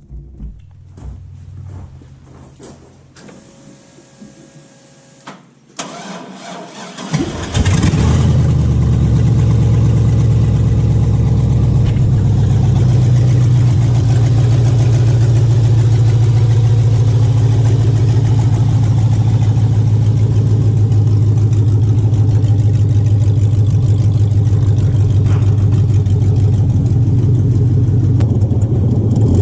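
Iron-block 5.3-litre LS V8 cold-started for the first time on open headers with no mufflers. After a brief whine of the fuel pump priming, the starter cranks for a moment and the engine catches about seven seconds in, then idles loud and steady.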